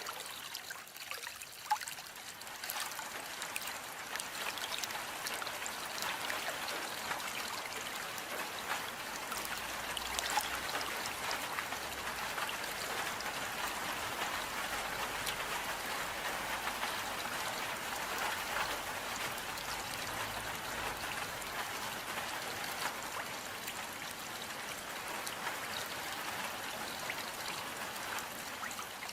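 Steady rain falling, with a patter of individual drops and water trickling.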